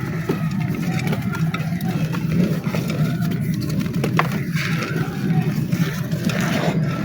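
Dry black clay crunching and crumbling as it is crushed, an irregular scatter of small crackles and snaps, over a steady low hum.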